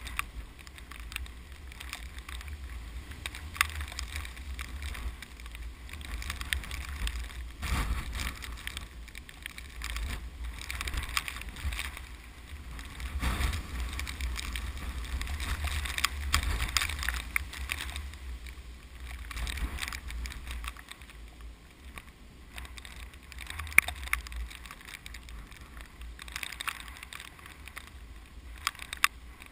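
Typhoon-strength wind gusting across a rice field: a low rumble of wind buffeting the microphone, with a hissing rustle of the wind through the rice plants that swells and fades with each gust.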